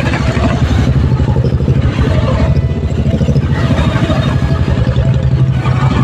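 Motorcycle engine running steadily while riding, with a noisy rush of wind and road above it.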